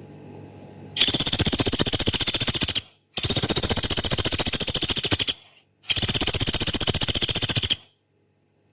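Pelatuk beras, a small pygmy woodpecker, giving three long, harsh, fast rattling trills, each about two seconds, with short gaps between them.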